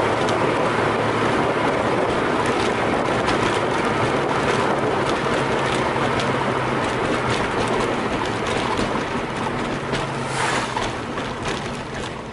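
Porsche 914 on the road: the engine hum under a steady rush of road and wind noise, easing off slightly near the end.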